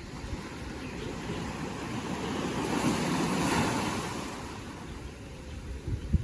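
Ocean waves: a wave swells and breaks about halfway through, then washes back, with low wind buffeting on the microphone near the end.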